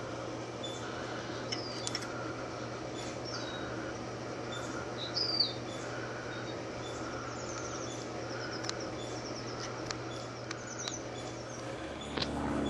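Birds chirping, with several short gliding calls and a quick high trill, over a steady low hum. Near the end a louder low rumble sets in.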